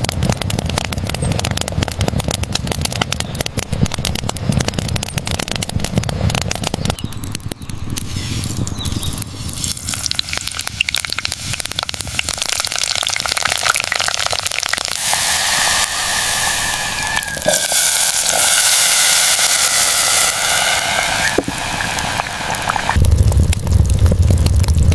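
Heavy rain pouring with a dense crackling patter. Partway through it swells into a louder rushing hiss with a wavering whistle, and a deep low rumble comes in near the end.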